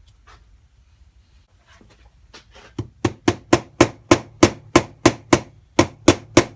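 A flat hammer tapping a part home into a KTM 85 motorcycle engine's crankcase: sharp metal strikes at about three a second, starting after two fairly quiet seconds, with one short pause.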